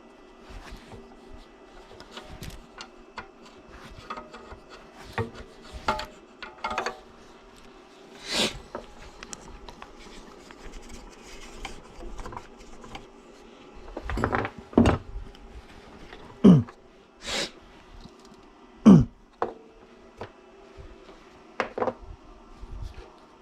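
Scattered knocks, clicks and scrapes of hard parts and tools being handled, irregular and a few seconds apart, over a faint steady hum. The loudest come in a cluster near the middle and about two-thirds of the way in.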